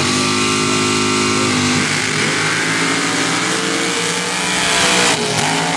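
Sand-drag racing engine at full throttle as the race vehicle launches and runs down the sand strip: the pitch climbs sharply right at the start, holds high for about two seconds, then turns into a loud, rougher roar.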